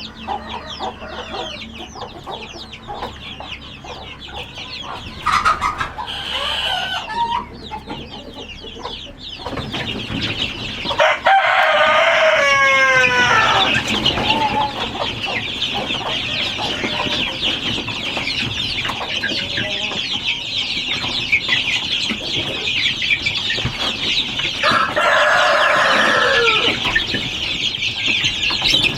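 A flock of chickens clucking and calling, growing busier partway through, with a rooster crowing twice: once just before the middle and once near the end.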